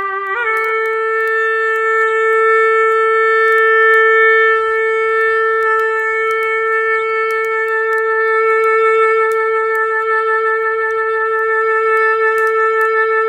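Clarinet holding one long note. It steps up slightly just after the start, then is sustained for about thirteen seconds with a slight waver. Faint clicks are scattered behind it.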